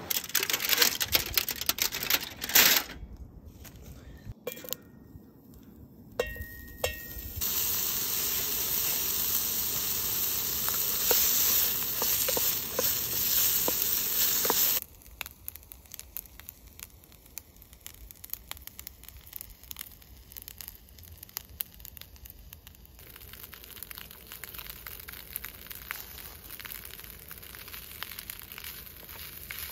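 Diced frankfurter sausages sizzling in a small pan on a gas camping stove, stirred with a wooden spatula, after a few knocks and clatter at the start. About halfway the sizzling cuts off suddenly, leaving quieter scraping and tapping of the spatula in the pan as pre-cooked rice is stir-fried.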